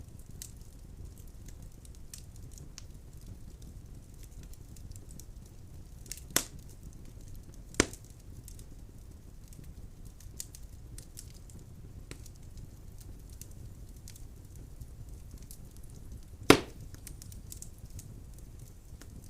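Wood fire burning in a fireplace: a low steady rumble with faint crackling throughout, and three sharp pops of burning logs, the loudest near the end.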